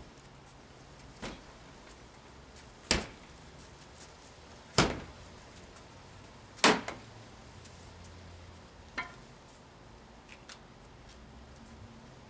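A person practising martial-arts footwork and strikes: a series of sharp impacts about every two seconds, the three in the middle loudest, with fainter ones near the end.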